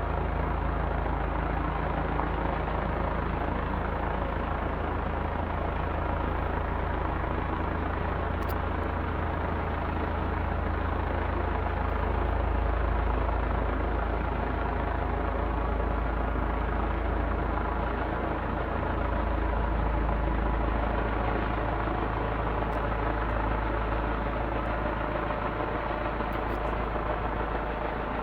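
Police helicopter running with a steady deep drone, swelling slightly twice.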